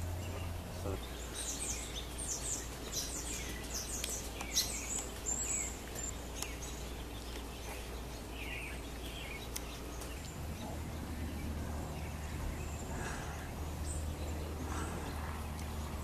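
Wild birds calling in trees: a flurry of short, high chirps in the first few seconds, then a few scattered lower calls. A steady low rumble runs beneath.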